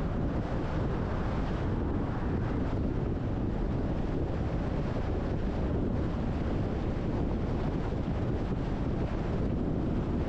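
Steady wind noise on the microphone: a constant low noise with no breaks or distinct events.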